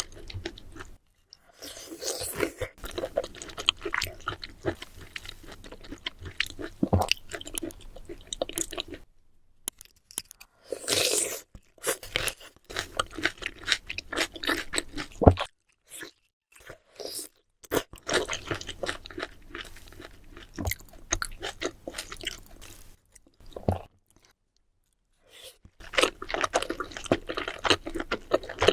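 Close-miked eating sounds: wet chewing and crunching with quick clicks and smacks, in several stretches that cut off suddenly into silence and start again.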